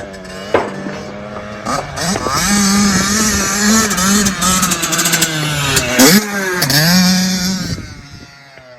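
Dirt bike engine revving up and down as it rides past, growing louder about two seconds in and fading away near the end.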